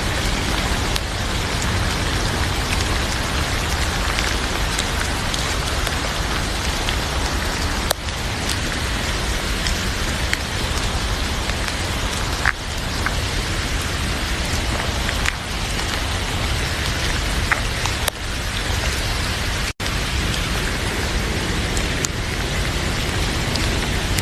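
Heavy rain falling steadily, with a few faint sharp crackles from a wood fire in a fireplace. The sound cuts out for an instant near the end.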